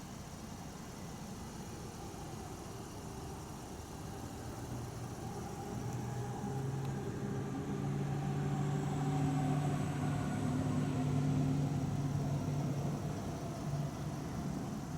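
Land Rover Discovery's 3.0-litre supercharged V6 running, its engine note rising gently from about four seconds in, holding, then easing back near the end.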